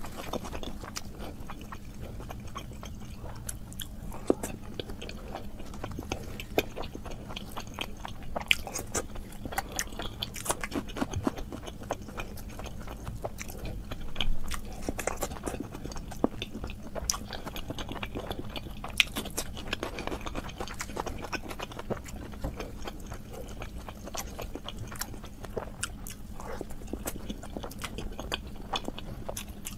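Close-miked chewing and biting of luchi, puffed fried bread, dipped in meat curry, with many small wet clicks and smacks from mouth and fingers.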